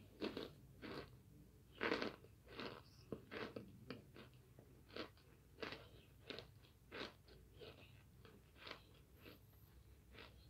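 Crunching as a person chews a mouthful of oven-baked starch chunks, a crisp crunch with each bite of the jaw about every half second to second, the loudest about two seconds in. The chunks are baked hard and very crunchy.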